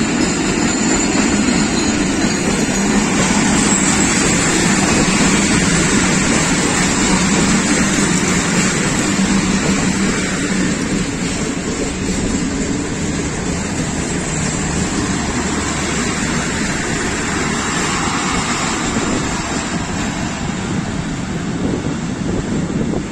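Passenger coaches of an arriving train rolling along the platform, with a steady rumble of wheels on rails that eases a little about halfway through.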